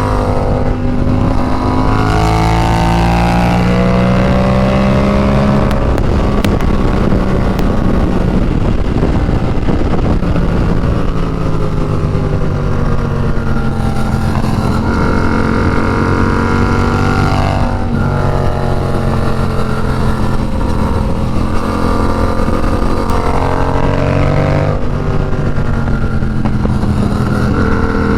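Yamaha FZ-07's parallel-twin engine under way, its pitch climbing as it revs and dropping back at each gear change, several times over. A steady low rush of wind runs beneath it.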